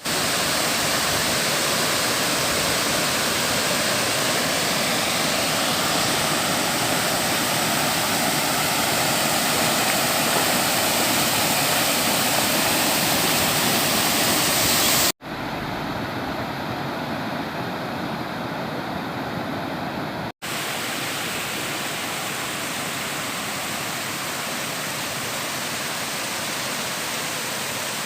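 Steady rush of river water pouring over rocks, like a small waterfall or rapids. It breaks off about fifteen seconds in and comes back quieter and duller, then breaks briefly again about five seconds later.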